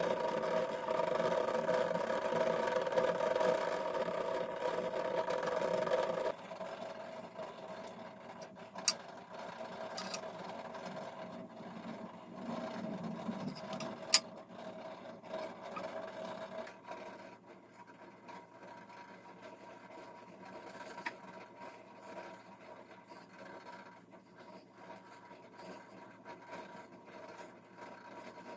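A small motor humming steadily, which drops off sharply about six seconds in to a fainter hum. A few sharp clicks follow.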